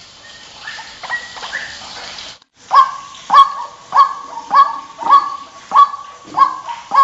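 White-breasted waterhen calling: a string of harsh, evenly repeated notes. A few softer notes come first, then a brief break about two and a half seconds in. After it the calls are louder and steady, about every half second to the end.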